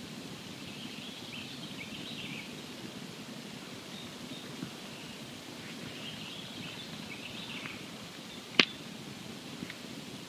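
Campfire burning with a steady low hiss and a few small crackles, and one sharp, loud pop about eight and a half seconds in.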